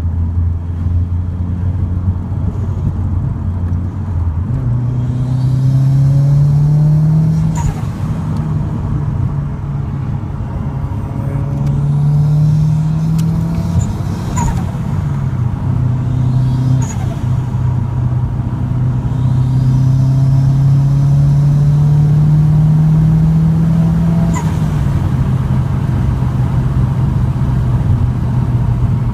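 Toyota Celica GT-Four ST205's turbocharged 3S-GTE four-cylinder climbing in revs several times, with a short sharp sound each time the throttle closes, about four in all: turbo flutter, which the owner suspects may come from the dump valve.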